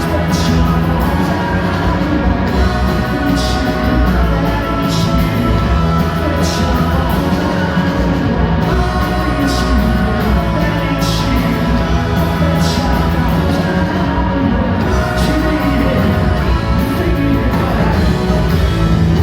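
Live rock band playing at full volume, sustained chords under cymbal crashes that come about every second and a half.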